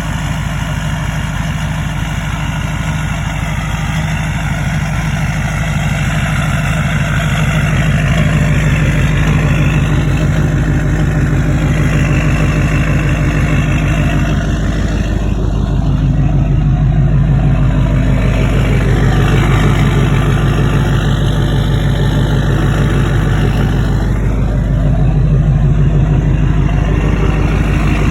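2004.5 Duramax LLY 6.6-litre V8 turbodiesel idling cold after a start in 6-degree weather with the block heater not plugged in. It runs steadily with a few slight swells in level.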